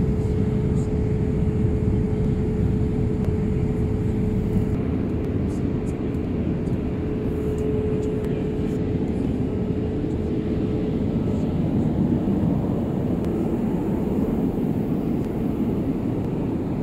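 Steady in-flight cabin noise of a Boeing 787-8 airliner: a low rush of airflow and engines, with a faint steady hum that fades out about eleven seconds in.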